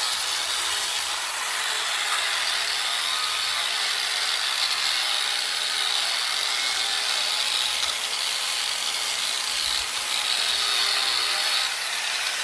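A power-tool wire wheel scrubbing the old finish off a bicycle frame, giving a steady, unbroken scratching hiss.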